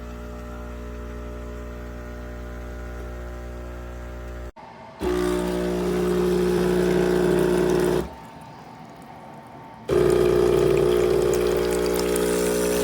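Compact 20-bar espresso machine's pump humming steadily as it runs, with liquid pouring. The sound cuts off sharply about four and a half seconds in and comes back louder, drops away near eight seconds, and returns loud again about two seconds later.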